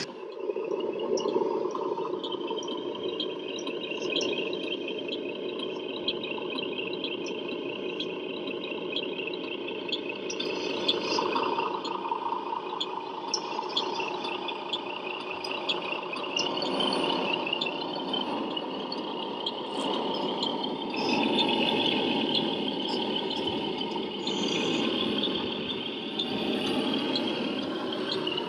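Radio-controlled model trucks and construction machines working: electric motors and gearboxes whining, with small rattles and clicks of plastic and metal parts.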